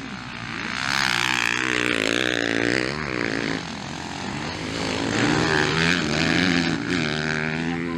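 Motocross bikes racing past, their engines revving up and down as the riders work the throttle. They grow loud about a second in, ease off briefly, then come loud again around five seconds in.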